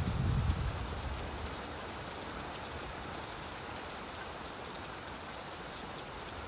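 Steady rainfall, an even hiss with fine scattered drop ticks. A low rumble of thunder dies away in about the first second.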